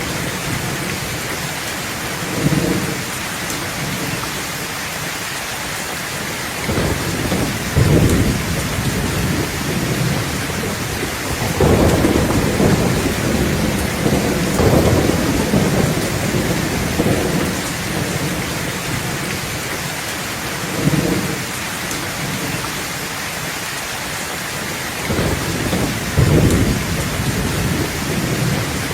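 Steady rain falling in a thunderstorm, with several low rolls of thunder rumbling through it, the longest about halfway through.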